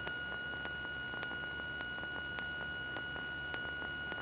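Steady electronic whine of several high pure tones, with faint ticks about three times a second, picked up as electrical interference on a light aircraft's intercom audio feed.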